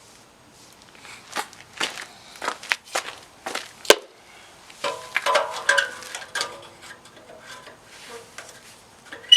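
Sharp metallic knocks and clinks from a stainless steel exhaust tip being handled and slid back onto a car's exhaust pipe. There are about two knocks a second at first, the loudest a little under four seconds in, then a busier patch of clattering and scraping with some ringing.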